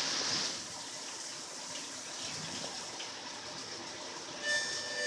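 Steady rain falling, an even hiss, a little louder in the first half second. Near the end, sustained music notes start up over it.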